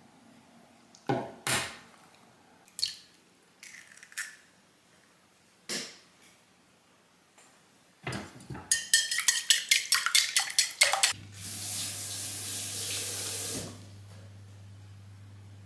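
Dishes and utensils clinking a few times, then a rapid clatter of hard pieces. After that comes a few seconds of running water, with a low steady hum.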